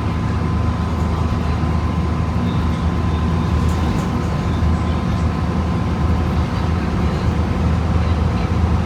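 2011 Gillig BRT transit bus with a Voith automatic transmission, heard from inside the cabin while under way: the engine and drivetrain run steadily, with a faint steady high whine over the low hum.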